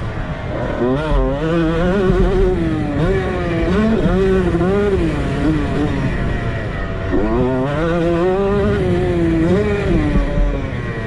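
Honda CR125 two-stroke dirt bike engine revving up and down as it is ridden, its pitch rising and falling again and again. The revs drop briefly about seven seconds in, then climb again.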